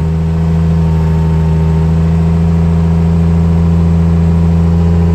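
1961 Mercury Comet's straight-six engine running steadily at idle after a cold start, with the choke pulled out.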